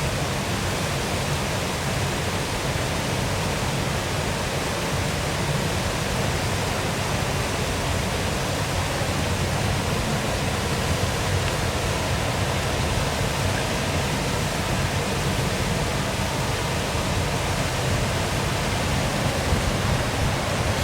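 Steady rush of water pouring over a small waterfall, an even noise with most weight in the low end.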